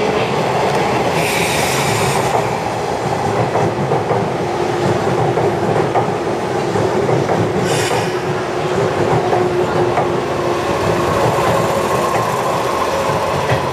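JR 485-series six-car electric train rolling slowly into a station platform: wheels clicking over rail joints under a steady whine. Two short hisses come about a second in and again about eight seconds in.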